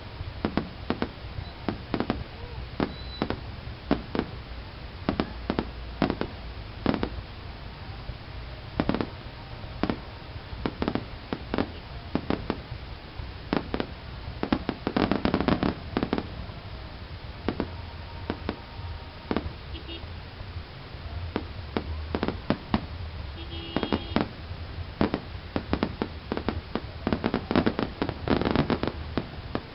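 Fireworks display: shells bursting in sharp bangs at irregular intervals, with two dense volleys of rapid bangs, one about halfway and one near the end.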